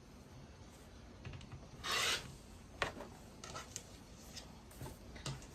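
A rotary cutter drawn through layered cotton fabric on a cutting mat, one short rasping cut about two seconds in, followed by a few light clicks and taps as the ruler and fabric pieces are handled.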